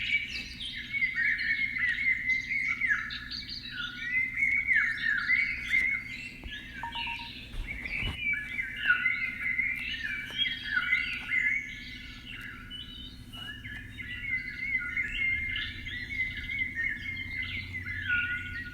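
Many birds chirping and calling at once in a dense, unbroken chorus of short overlapping chirps and trills, over a faint steady low hum.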